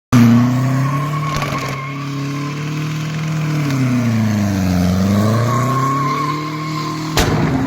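Mercedes-Benz C220 turbo diesel engine held at high revs while its tyres squeal in a burnout. The engine note sags in pitch about halfway through and then climbs back, and there is a sharp knock near the end.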